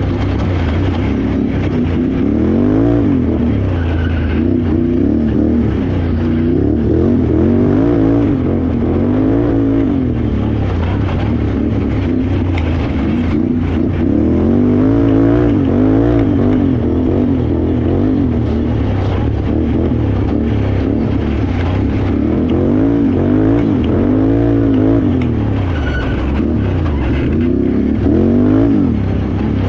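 Can-Am Renegade X xc 1000R ATV's V-twin engine ridden hard off-road, revving up and dropping back again and again, every second or two, as the throttle is opened and closed.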